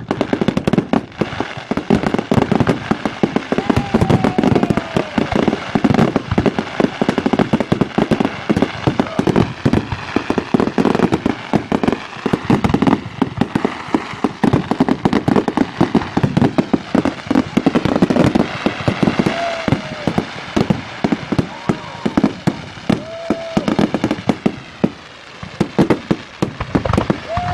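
Large fireworks display with dense, continuous crackling and banging, many sharp reports a second. A few brief whistling tones sound over it.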